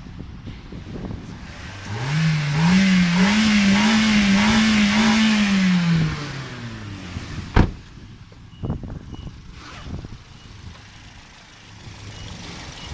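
Toyota Vitz 2NZ-FE 1.3-litre inline-four engine revved up from idle, held at raised revs with a slight waver for about four seconds, then let fall back to idle. About two-thirds of the way through there is one sharp knock.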